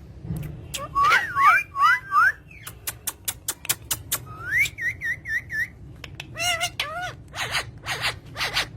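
Parrots whistling and calling. Rising and falling whistled notes come about a second in, a quick run of wavy whistles follows about halfway through, and short sharp clicking chirps are scattered all through.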